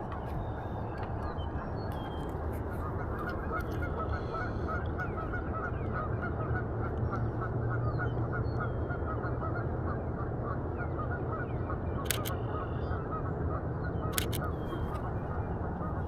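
A flock of geese going crazy, honking in a rapid, continuous chatter over a steady low background rumble. Two sharp clicks come near the end.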